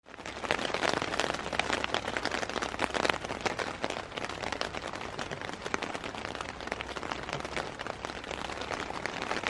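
Steady rain, with many separate drops pattering close by.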